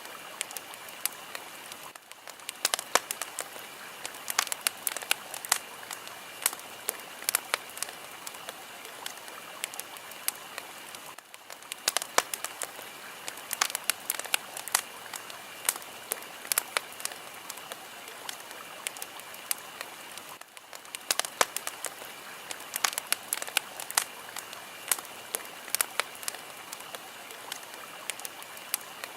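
Fire crackling, with dense sharp pops and snaps over a steady hiss. The level dips briefly about every nine seconds.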